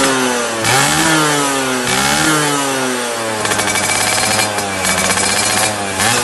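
Two-stroke underbone motorcycle engine revving hard through a TNX racing exhaust. It is blipped up and back down twice in the first few seconds, then held at high revs with the pitch climbing again near the end.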